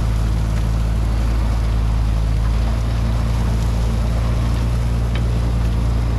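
Heavy-equipment engine running steadily at a constant speed, a low even drone with no revving.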